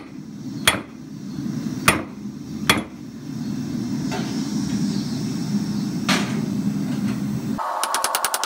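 Hand hammer striking red-hot steel rod on an anvil while drawing out a point: four sharp blows in the first three seconds, then two lighter clinks, over a steady low rush. Near the end a rapid, even run of ringing taps starts.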